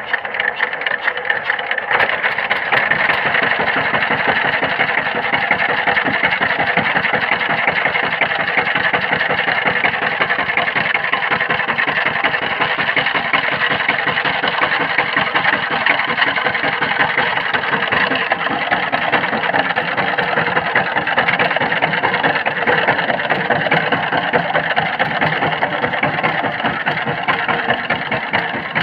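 Walk-behind power tiller's engine running with a fast, steady chugging that picks up slightly about two seconds in and then holds even.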